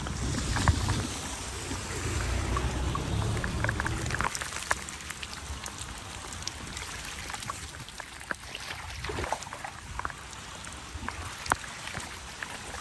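Running and splashing water with scattered drips and patter. A low rumble lies under it for about the first four seconds.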